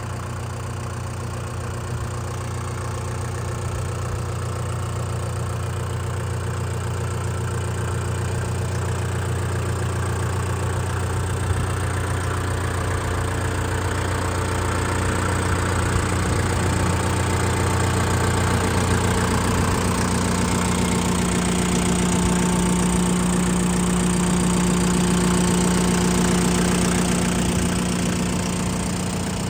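Shibaura SD3234 compact tractor's 32 hp four-cylinder diesel engine running steadily; about two-thirds of the way through its note rises to a higher pitch and holds there.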